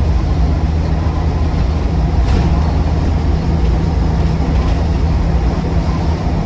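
Land Rover Defender 90's TD5 five-cylinder turbodiesel engine running steadily under way, with road and tyre noise, heard from inside the cabin.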